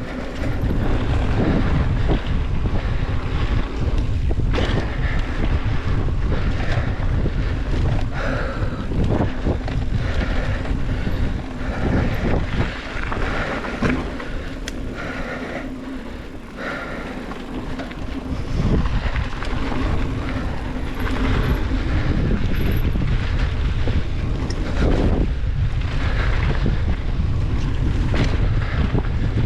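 Wind buffeting the microphone of a mountain bike riding down a dirt trail, with frequent knocks and rattles from the bike over rough ground.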